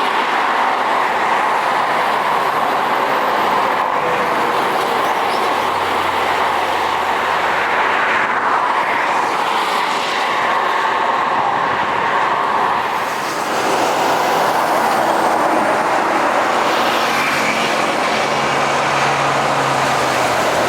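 Jet airliner engines running at takeoff power, a steady loud rushing noise that dips briefly about two-thirds of the way through.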